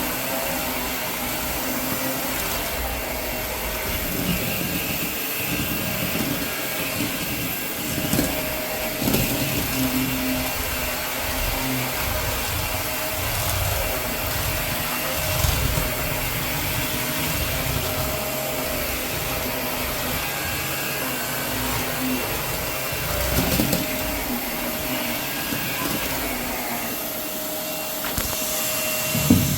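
Vacuum cleaner running steadily, sucking up cut hair from the floor, with a few short bumps along the way.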